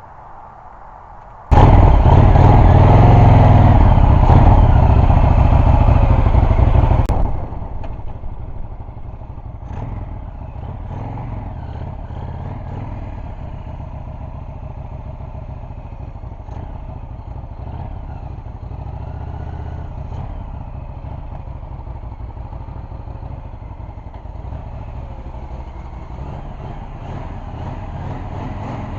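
Honda VTX 1300's V-twin engine, long dormant and fed from a makeshift IV-bottle fuel tank, bursts into running about a second and a half in. It runs loud for about five seconds, then drops to a quieter steady idle.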